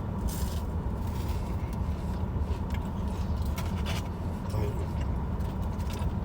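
A steady low rumble, like a vehicle idling, with scattered short scrapes and clicks over it, as of food and a takeout container being handled.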